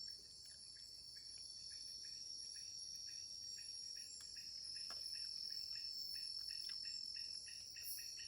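Tropical forest insects calling: a steady high-pitched buzzing drone, with a quieter pulsing chirp beneath it at about four pulses a second.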